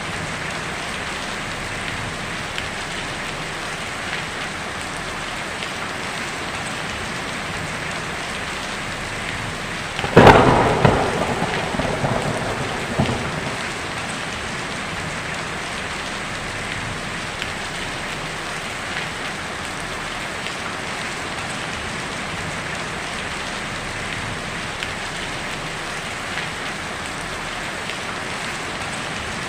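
Heavy rain drumming steadily on a tin roof. About ten seconds in, a sudden loud thunderclap cracks and rumbles away over a few seconds, with a smaller rumble near the end of it.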